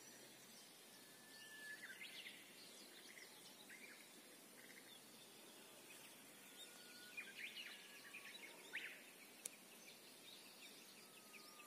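Faint bird calls: scattered short chirps and brief whistled notes over a low steady outdoor hiss, busiest a little past the middle.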